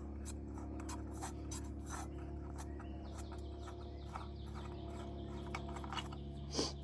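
Faint scratching, rubbing and small clicks of hands working a cover loose on an old Kohler garden-tractor engine, over a steady low hum.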